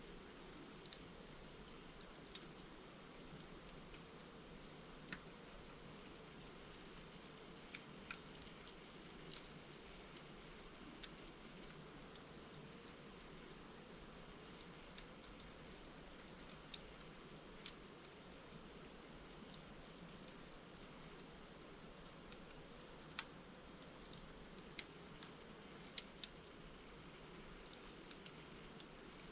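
Logs burning in a fireplace, crackling: irregular sharp pops and snaps over a soft steady hiss, with one much louder pop about 26 seconds in.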